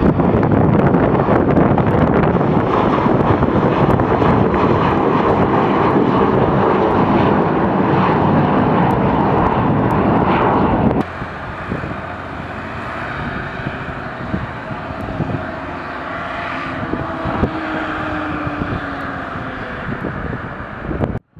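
Airliner engines running loud as an aircraft takes off or lands, cutting off suddenly about halfway through. A quieter stretch of engine sound follows, with a thin whine and a tone that slides slowly down.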